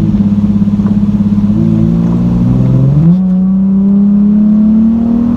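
Nissan 370Z's 3.7-litre V6 through a muffler-deleted exhaust, heard inside the cabin while driving at about 2,000 rpm. It gives a loud, low, steady note that pulses at first. About three seconds in the pitch steps up and then climbs slowly as the revs rise.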